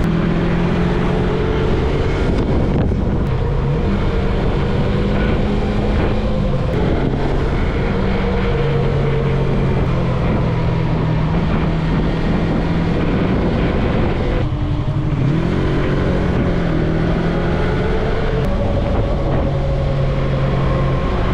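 Yamaha MT-03 motorcycle engine running at road speed under heavy wind rush on the mic. The engine note holds steady and shifts in pitch a few times.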